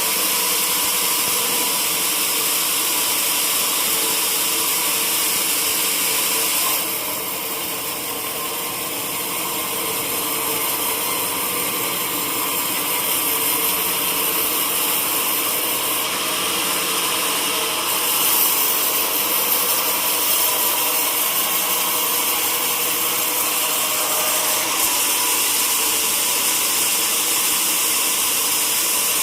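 Sawmill saw running through an old teak log: a steady machine noise with a strong hiss. It drops a little about seven seconds in, then builds back.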